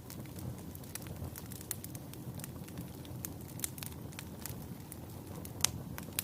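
Wood fire burning in a fireplace: a steady low rumble of flames with frequent sharp crackles and pops, one louder pop about five and a half seconds in.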